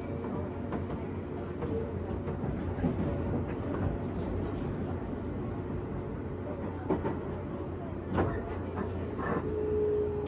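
Interior running sound of a JR West 201-series electric train's motor car as it draws into a station: a steady hum with scattered clicks and knocks from the wheels and car body. A steady tone starts near the end.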